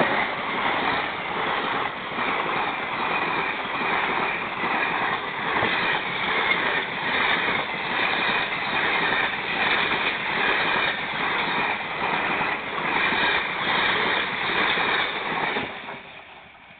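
Indian passenger train coaches passing at close range, their wheels clattering over the rail joints in a steady rhythm. The noise falls away near the end as the last coach goes by.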